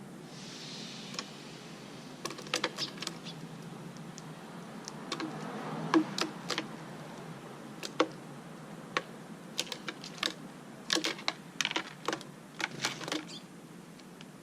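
Irregular series of sharp clicks and taps, some in quick clusters, the loudest about six and eight seconds in.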